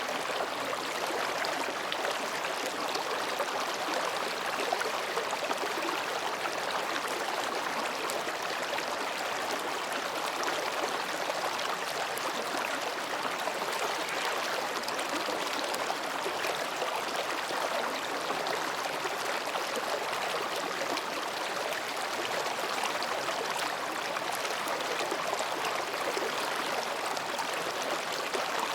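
Mountain stream babbling as it flows between rocks: a steady, even rush of water with no pauses.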